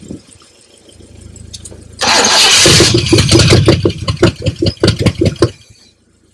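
1972 Buick Riviera's 455 V8 cranking, then catching about two seconds in with a loud burst. It sputters in uneven pops for about three seconds and dies, running with one exhaust piece left off.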